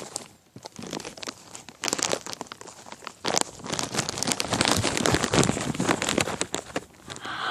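Dense, irregular crinkling and crunching rustle, quieter at first and louder from a few seconds in.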